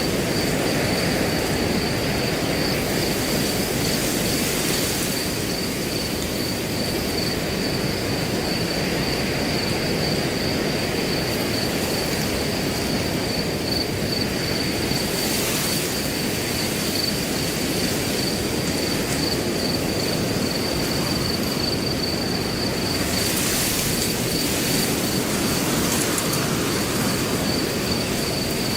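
Steady wind rustling through grass, with a cricket trilling continuously at a high pitch throughout. The rustle swells briefly in a couple of gusts, around the middle and again near the end.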